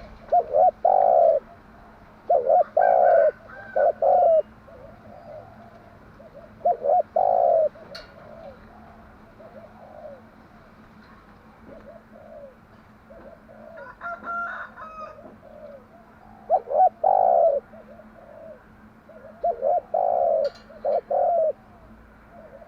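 Spotted dove cooing: loud phrases of two or three low notes repeated about five times, with fainter coos from other doves in between.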